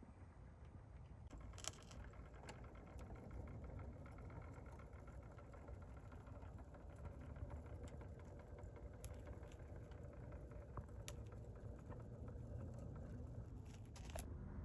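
HO scale Athearn Genesis SD70M model locomotive running on track with freight cars: a faint, steady motor hum with scattered light clicks from the wheels and couplers.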